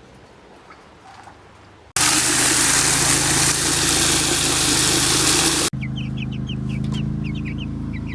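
A vehicle engine running at idle, starting abruptly about two seconds in, at first under a loud rushing noise, then quieter with chickens peeping and clucking over it.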